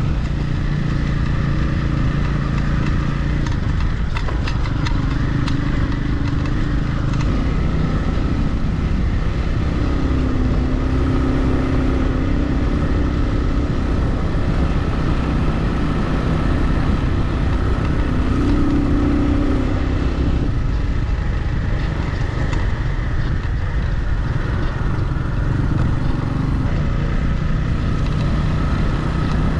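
Motorcycle engine running while riding on a dirt road, its pitch rising and falling with throttle changes, over a steady low rumble of noise. There are a few short rattles a few seconds in.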